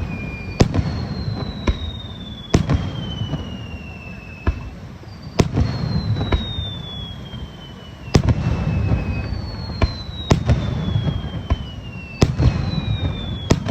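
Aerial fireworks display: sharp shell bursts about every one to two seconds, with several whistling shells gliding down in pitch over about two seconds each, over a low rumble.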